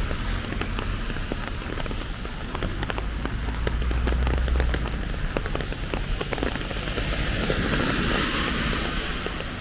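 Steady rain falling, with many sharp drop ticks close by and a low rumble underneath. A louder, brighter hiss swells in about two-thirds of the way through and holds to the end.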